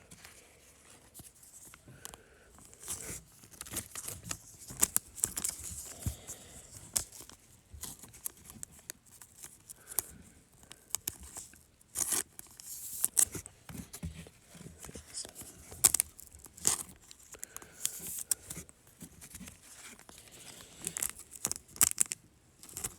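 Trading card packs being torn open and handled: wrappers tearing and crinkling, with scattered short clicks and rustles as the cards are pulled out and sorted.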